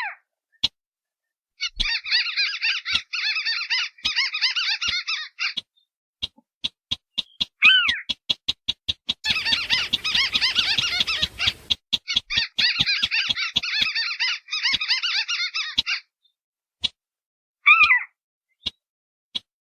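Recorded calls of wetland rails, the sintar beker and the white-browed crake, played as a trapping lure. Rapid sharp ticking clicks run throughout, broken by three long bouts of dense harsh chattering and, twice, a short downslurred call.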